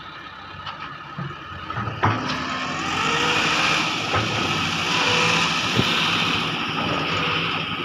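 Heavy excavator working, its engine running steadily and growing louder from about three seconds in, with a sharp knock about two seconds in.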